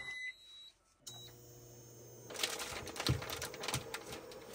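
A short electronic beep, then chicken sausages starting to fry in a pan: irregular sizzling and popping over a low hum, growing busier from a little past two seconds in.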